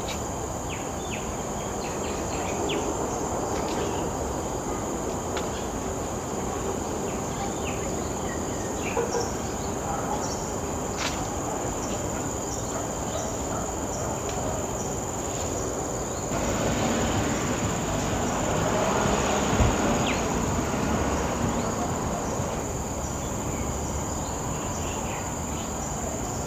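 Forest insects, such as crickets or cicadas, keep up a steady high-pitched drone over a broad rushing noise. The rushing grows louder about two-thirds of the way through, and a few faint clicks sound over it.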